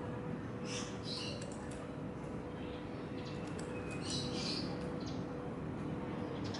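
Small birds chirping in short high bursts, about a second in and again around four seconds in, with a few light clicks, over a steady hum and background noise.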